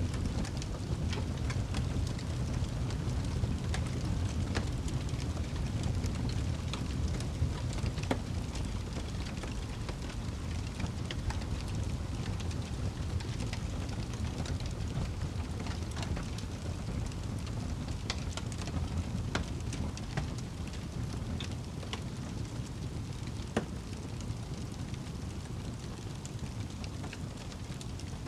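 Wood fire crackling in a fireplace: a steady low rumble of flames with irregular sharp pops and snaps throughout.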